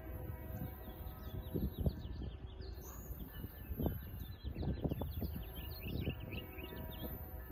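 Outdoor ambience: a small bird sings a rapid run of short, high chirps through the middle, over a low rumble of wind on the microphone.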